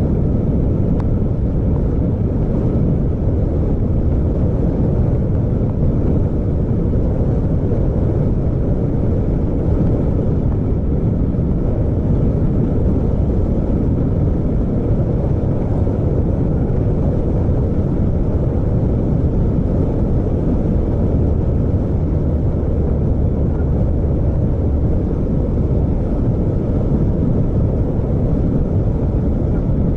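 Steady low rumble of a vehicle driving along a road, engine and road noise without let-up.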